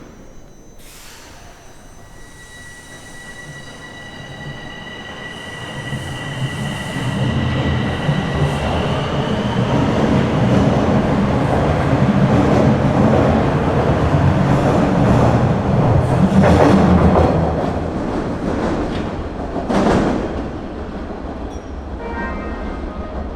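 Bombardier Toronto Rocket subway train pulling away and picking up speed, its running noise and rumble growing steadily over the first ten seconds and then holding loud. A couple of sharp clacks come later on.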